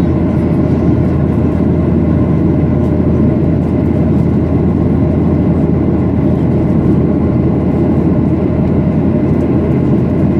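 Steady cabin rumble of a Boeing 737-800, its CFM56 engines and airframe heard from inside the passenger cabin, deep and even with no change in level.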